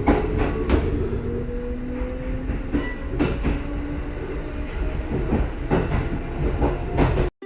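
Kintetsu 80000 series Hinotori electric train running, its motor whine rising steadily in pitch as it picks up speed, over a low rumble with the wheels clicking irregularly on rail joints. The sound cuts off abruptly near the end.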